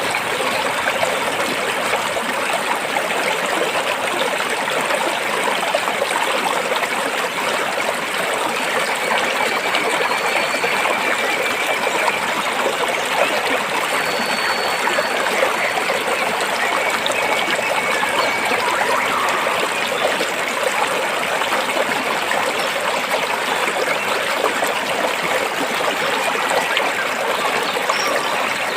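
Stream water running over and between rocks: a steady, even rush and trickle with no let-up, plus a few faint thin high tones in the middle.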